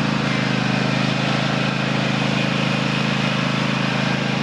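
Engine of the machine towing a drag leveler, running steadily at a constant speed, with a low even hum.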